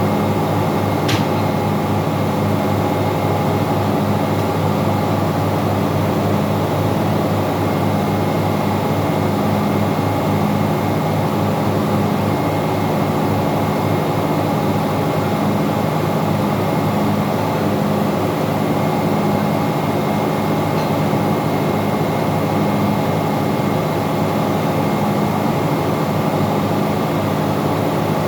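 Ship's engine-room machinery running steadily: a loud continuous drone with a regular low throb and steady hum tones. There is one sharp metallic click about a second in.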